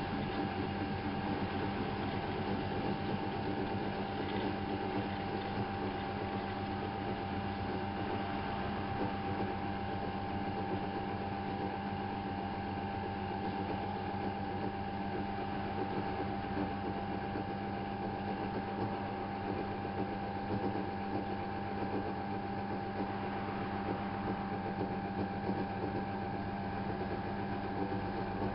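Miele Novotronic W830 washing machine running: a steady machine hum with a constant high whine.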